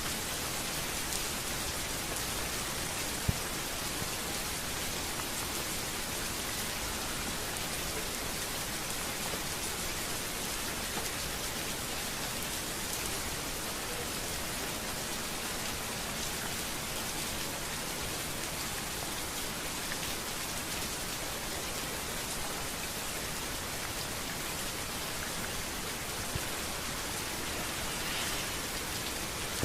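Steady rain falling on a street, an even hiss of drops on hard surfaces, with a single sharp tick about three seconds in.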